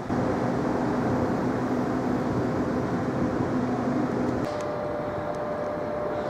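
Steady hum of a running motor or engine, several low tones over a noisy bed; about four and a half seconds in the lower tones drop away, leaving a single steady higher whine.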